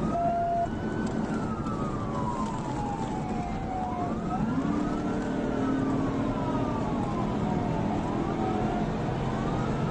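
Police cruiser siren in a slow wail, rising and falling about every four seconds, over steady engine and road noise during a high-speed pursuit.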